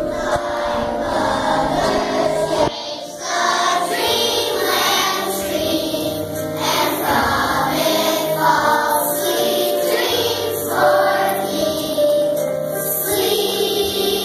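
A choir of young children singing a song together, with a short break in the singing just under three seconds in.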